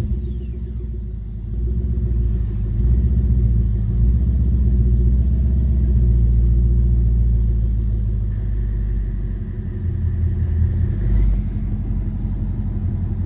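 2012 Ford Mustang GT's 5.0-litre V8 idling just after a start, its level swelling about a second and a half in and easing off again near the end. This is a check on a rough idle that the owner blames on a missing hose, now refitted, and the idle seems to be settling.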